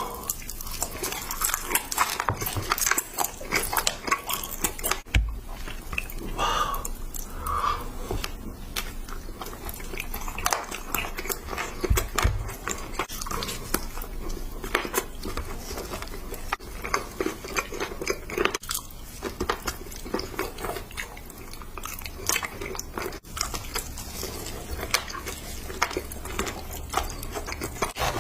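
Close-miked eating: biting and crunchy chewing of a blue sugar sweet, a dense run of crackles and clicks with a few sharper bites.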